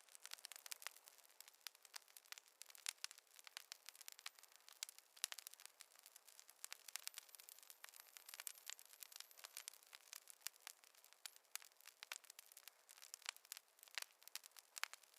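Wood fire crackling and popping in quick, irregular snaps, with no low rumble.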